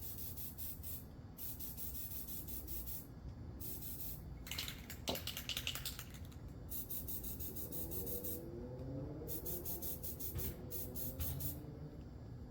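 Aerosol spray can spraying in a series of hissing bursts, about seven, each lasting about a second.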